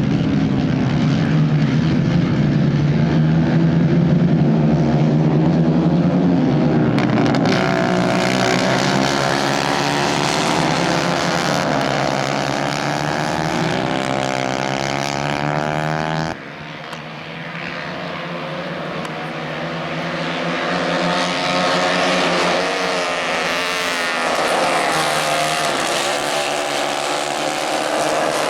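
Racing engines of 150 cc kayak-style karts running hard, their pitch climbing and falling as they accelerate and lift. The sound drops suddenly a little past halfway, then builds back up.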